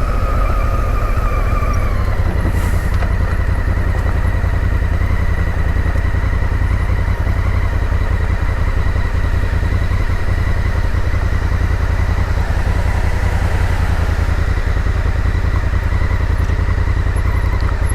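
Honda Africa Twin's parallel-twin engine running steadily while the motorcycle is ridden, with a brief falling whine in the first couple of seconds.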